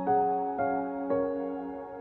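Soft instrumental background music: single keyboard notes struck about every half second, each left ringing and fading.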